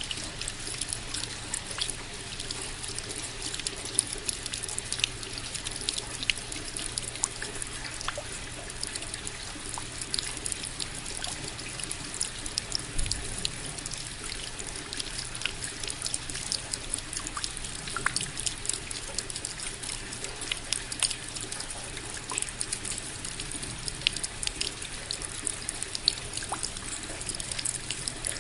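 Steady rain falling, an even hiss dotted with many separate drops striking and dripping.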